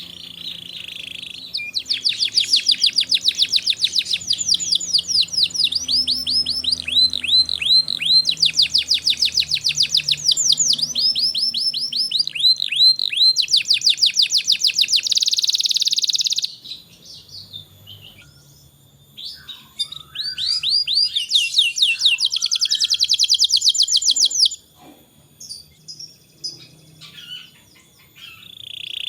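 Domestic canary singing in rapid repeated trill phrases, fast trains of high notes that change phrase every few seconds. A long run of song, a pause of a few seconds with scattered short chirps, then a second, shorter run and more scattered chirps near the end.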